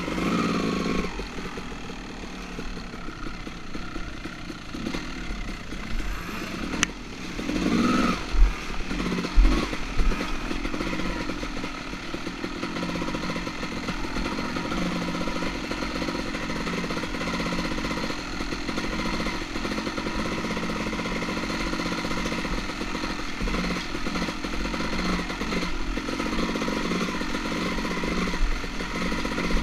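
Two-stroke dirt bike engine running steadily at low revs, with a few louder surges of throttle and a couple of knocks about eight to ten seconds in.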